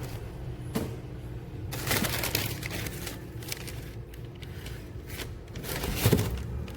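Rustling and scraping handling noises with several short knocks, busiest about two seconds in and again near the end.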